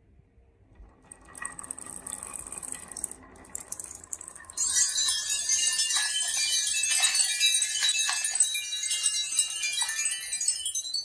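Marbles rolling and clattering down a marble run: a light rattling from about a second in, then from about halfway a loud dense stream of clicks and ringing, chime-like tones as many marbles run at once, cut off suddenly at the end.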